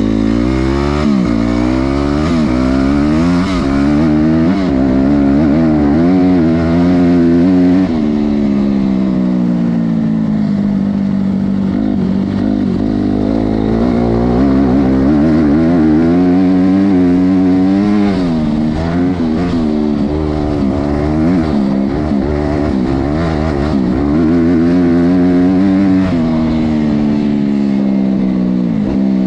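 Honda CRF250R's single-cylinder four-stroke engine being ridden hard: the revs climb in several quick rises, fall away as the throttle closes, then rise and fall again and again.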